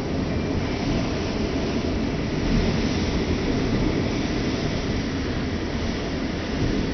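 Hurricane wind blowing hard and steadily, with a rumbling buffet on the microphone that swells a little a few seconds in.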